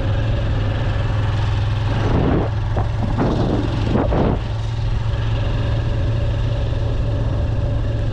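A motor vehicle's engine running steadily with a constant low hum, with a few louder swells of noise from about two to four and a half seconds in.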